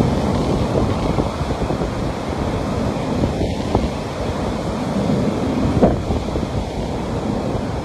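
Sea waves washing onto a beach in a steady rush, with wind buffeting the microphone in a low rumble.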